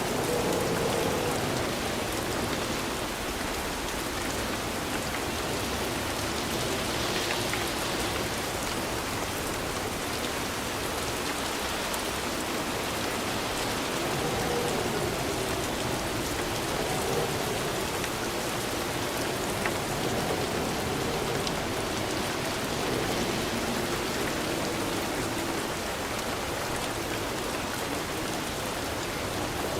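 Steady rain falling, an even hiss of drops with no pauses.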